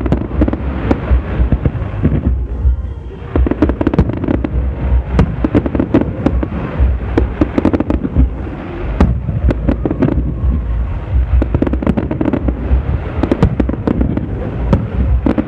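Aerial fireworks display: a rapid, near-continuous barrage of bangs and crackling shell bursts, with a brief lull about two to three seconds in.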